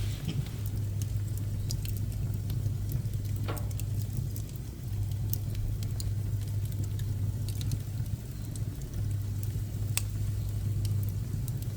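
Pine offcuts burning in a wood stove, crackling with scattered sharp pops and one brief falling whistle about three and a half seconds in, over a steady low hum.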